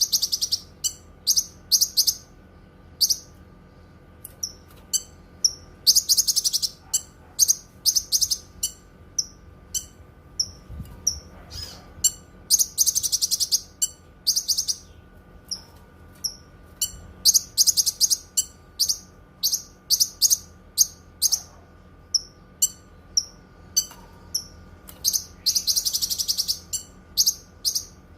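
Cucak kinoi songbird singing: a string of sharp, high chirps, broken several times by longer runs of rapid notes.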